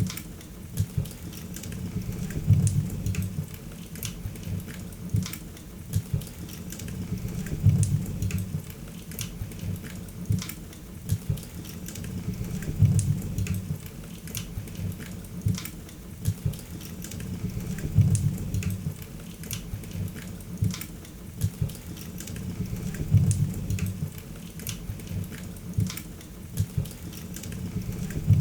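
Wood fire crackling, with many sharp pops over a low rumble of flames that swells about every five seconds.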